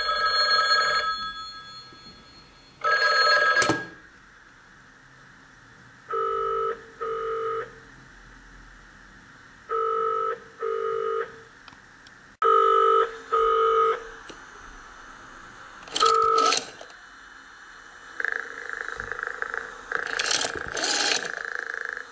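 Vintage rotary telephone rigged as a sound installation: two loud ringing bursts near the start, then a two-beat telephone ring tone that repeats about four times, a few seconds apart, with scattered handling noise near the end.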